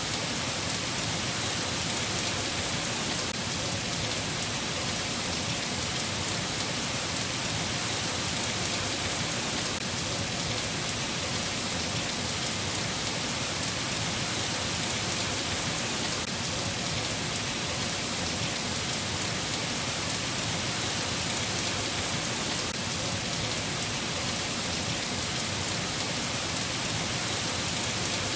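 Steady rain falling: an even hiss of many small drops that holds constant throughout.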